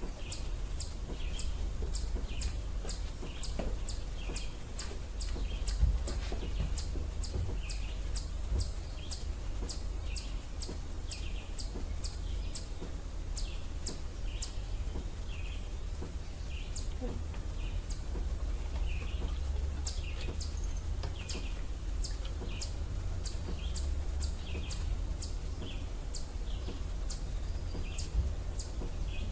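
A small bird chirping over and over in a steady rhythm, about two to three short, high chirps a second, with a steady low rumble underneath.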